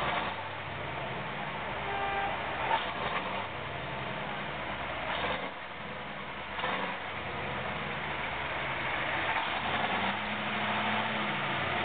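KrAZ-255B heavy truck's diesel engine running steadily.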